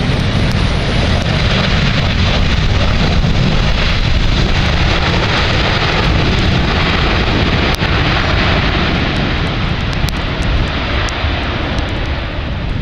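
Jet airliner close by on the runway, its engines giving a loud, steady rush of noise that swells a little in the middle and eases slightly near the end.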